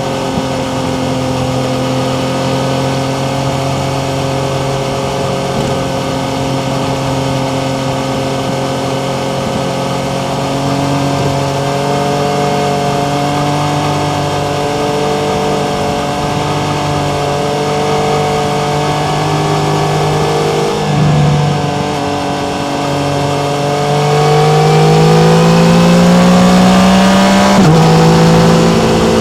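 Yamaha MT-09's three-cylinder engine running at a steady cruise, with a brief throttle lift about two-thirds of the way in. It then revs up, louder and rising in pitch under acceleration, and drops back at a gear change near the end.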